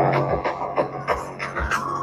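Song playing on a boAt Stone 1200 Bluetooth speaker, with a held low bass note and regular kick-drum beats.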